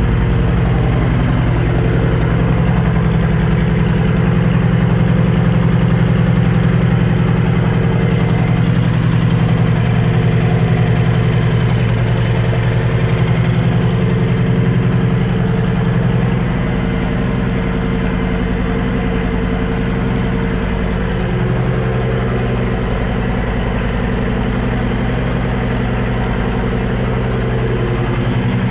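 Honda VT1300C Interstate's 1312 cc V-twin, fitted with Vance & Hines exhaust pipes, idling steadily with an even low pulse. It settles slightly quieter a little past halfway.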